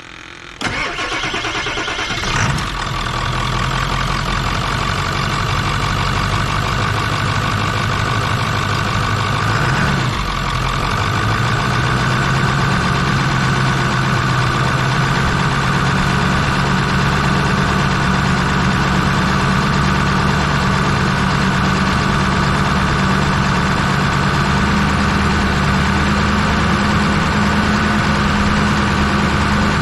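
2000 Ford F-250 Super Duty truck engine cranking and starting about half a second in, then idling steadily; the idle note shifts slightly about ten seconds in and settles.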